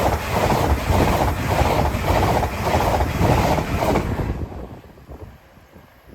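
An LNER express passenger train passing at speed close by: a loud rush with a rapid, even clickety-clack of wheels on the rails, which stops fairly suddenly about four seconds in as the last carriage goes by.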